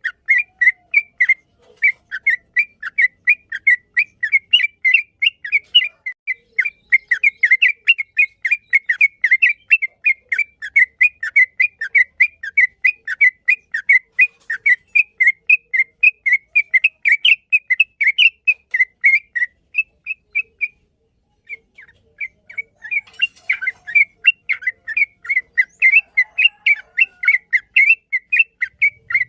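Yellow-vented bulbul (trucukan) singing a long, fast run of short chirping whistled notes, several a second, broken by a pause of about a second roughly two-thirds of the way through.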